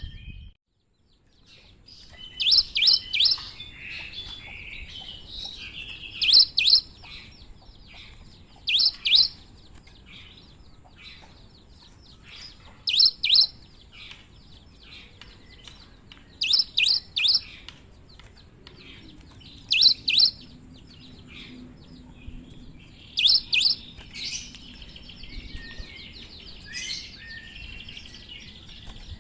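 Cinereous tit (gelatik batu) singing in loud, high phrases of two or three sharp, clipped notes, repeated about every three to four seconds, with softer rapid chattering notes between the phrases. The song breaks off for about a second at the very start.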